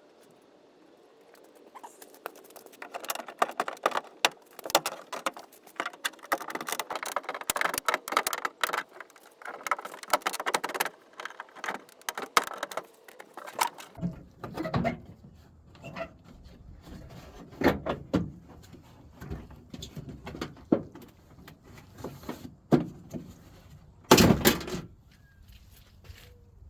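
Metal door hardware and hand tools on a pickup door being worked on: a dense run of rattling and clicking for about twelve seconds, then scattered clunks and knocks, with one loud knock near the end.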